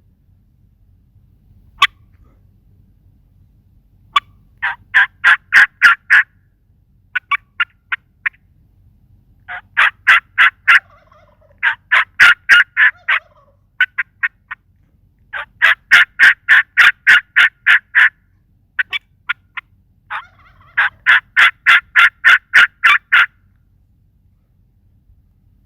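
Turkey calls: repeated runs of rapid, sharp notes, about five a second, each run lasting one to three seconds with short pauses between.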